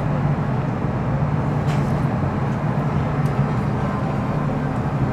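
Interior running sound of an MTR Metro Cammell M-Train (CM-Stock car C115, GEC GTO chopper traction) on the move: a steady rumble of wheels and traction equipment with an even low hum.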